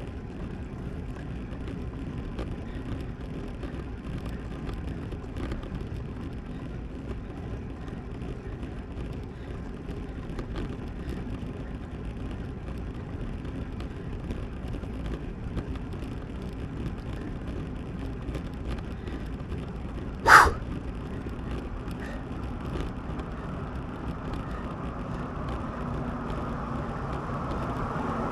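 Steady wind and road rush on a road bike's mounted camera while riding. About 20 seconds in there is one short, loud, sharp sound, and the rush grows louder near the end.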